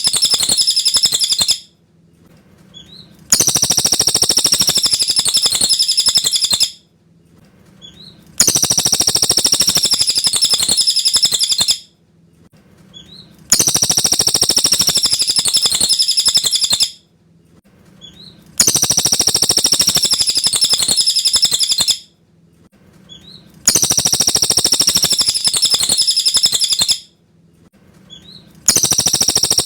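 Cililin bird singing high-pitched chirping phrases, each about three and a half seconds long, repeated over and over with short pauses between them like a looped recording.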